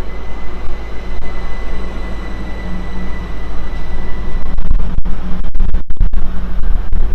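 A train passing close by: a loud, steady rumble that grows louder about halfway through, with wind buffeting the microphone.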